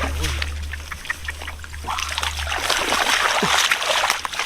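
Splashing and sloshing of muddy water in a flooded rice field as catfish are caught, louder and busier in the second half, over a steady low hum.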